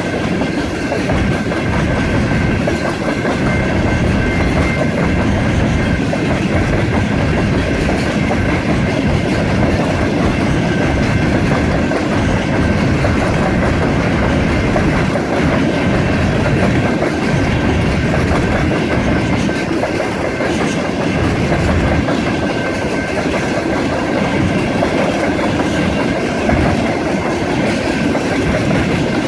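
A long freight train of covered hopper cars rolling steadily past a level crossing: a continuous, even rumble of cars and wheels on the rails, with a thin steady high tone above it.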